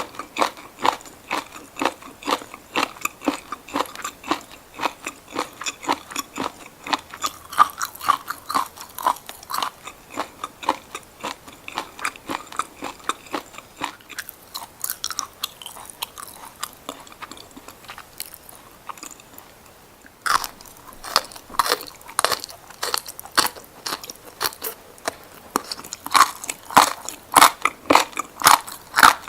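Close-miked crunchy bites and chewing of raw seaweed, a quick run of crisp crunches several times a second. They thin out and soften in the middle, then come back louder and denser about twenty seconds in.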